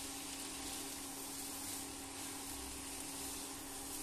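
Grated paneer and vegetable bhurji frying with a soft, steady sizzle in a nonstick pan as it is stirred continuously with a spatula to cook off its moisture, over a steady low hum.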